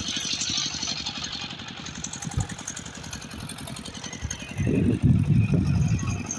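An engine running with an even, fast pulsing, growing louder for about a second and a half near the end.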